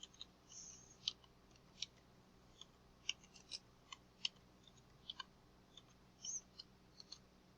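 Faint, irregular small clicks and ticks, about a dozen scattered through a near-quiet pause, with one short high chirp about six seconds in.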